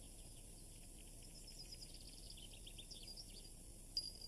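Faint high chirping over a low hiss. A quick run of short chirps comes in the middle, and a single brighter chirp near the end, like birds or insects in the ambience of a cartoon soundtrack.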